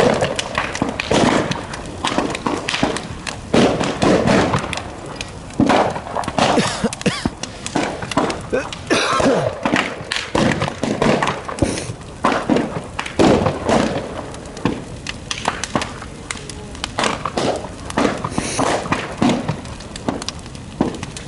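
A large outdoor bonfire crackling, with many sharp pops and cracks at irregular moments, over the murmur of people's voices.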